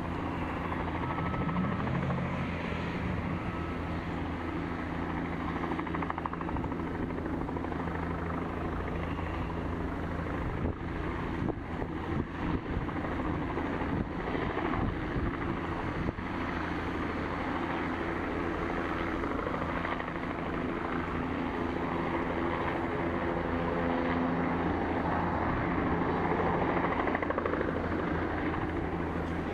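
Helicopter running with its rotor turning, a steady low hum with fixed tones that grows a little louder near the end.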